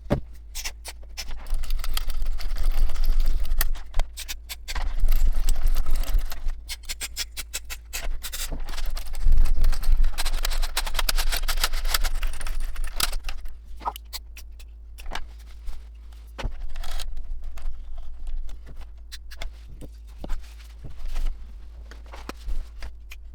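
Aerosol contact cleaner sprayed in three long hissing bursts into a receiver's switches and potentiometers, with many sharp clicks as the switches and controls are worked to spread the cleaner.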